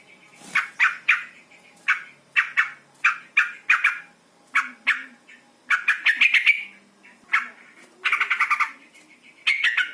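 Female yellow-vented bulbul (trucukan) calling: a series of short, sharp chattering notes, many in quick pairs or clusters, with a fast rattling trill about eight seconds in.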